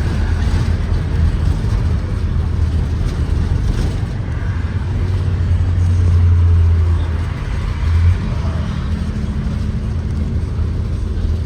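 Interior ride sound of a 2023 Blue Bird Vision school bus with a Ford 7.3L V8: a steady low engine rumble with road and cabin noise while under way. The engine swells a little about six seconds in, then eases off.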